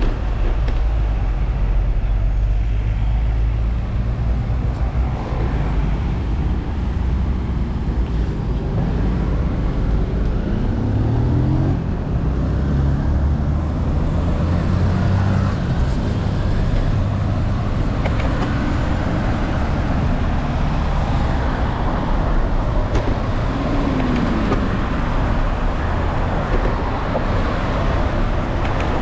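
Road traffic noise: a steady low rumble of motor vehicles, with passing engines whose pitch glides up once and later down once.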